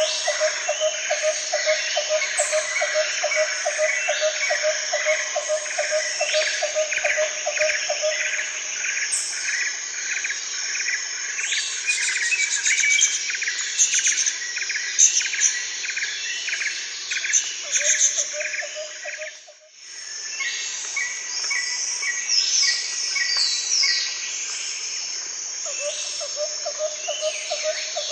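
Many birds chirping and calling over each other, with a low pulsing call repeating about four times a second that stops and starts.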